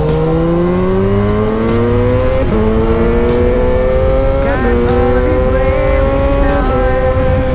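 Yamaha XJ6's 600 cc inline-four through a Dominator GP full exhaust with its dB killer fitted, accelerating hard with the engine note rising. The note is cut by three quick upshifts about two seconds apart, typical of a quickshifter, and then holds steady.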